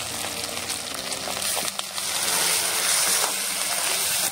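Pork pieces sizzling as they fry in their own rendered fat in a wok, with garlic, ginger and chilli just added; the sizzle grows louder about two seconds in, and a metal spoon stirs the pan near the end.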